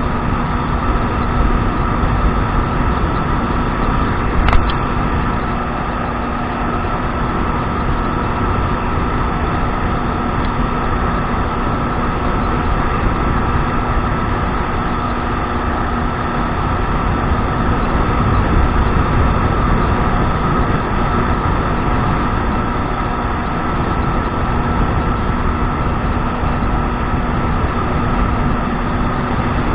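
Kawasaki 1200 jet ski engine running steadily under way, with a constant even drone over the rush of water and wind. A single sharp click comes about four and a half seconds in.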